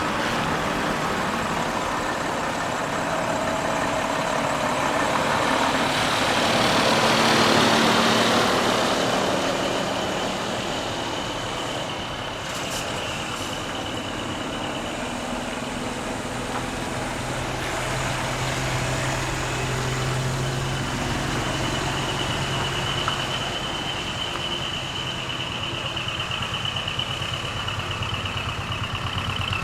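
Heavy decorated trucks driving out, their diesel engines running. One passes close and loud about seven seconds in, and a steady high whine comes in during the second half.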